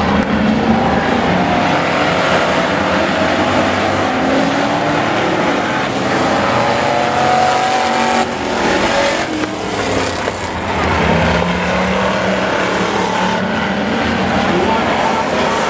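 Several pickup trucks racing around an oval track, their engines running hard together, pitch rising and falling as they accelerate and pass.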